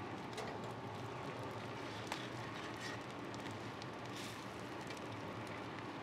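Salmon skin frying on a hot flat-top griddle: a steady sizzle with scattered small crackles. A metal spatula gives a sharp click against the steel about two seconds in, and a brief louder hiss comes near four seconds.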